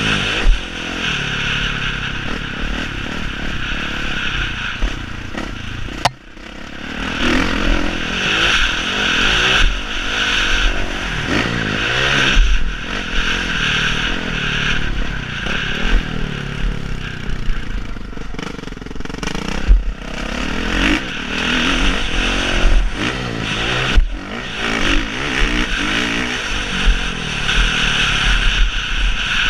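Motocross dirt bike engine running hard and revving up and down again and again, with clatter and sharp knocks throughout; a loud crack about six seconds in is followed by a brief sudden drop in the sound.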